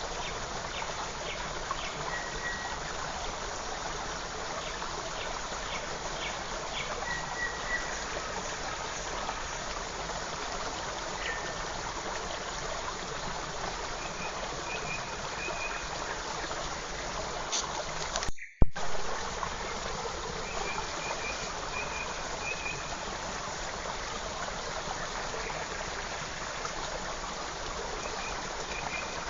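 Forest creek flowing steadily, with small birds giving short, high calls now and then. A sharp click and a split-second drop-out come about two-thirds of the way through.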